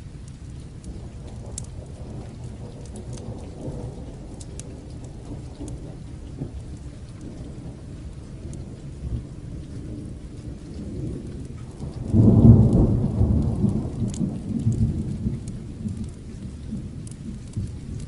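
Steady rain with thunder rumbling low beneath it. About twelve seconds in, a louder peal of thunder breaks in suddenly and rolls away over several seconds. Light scattered crackles sit over the top.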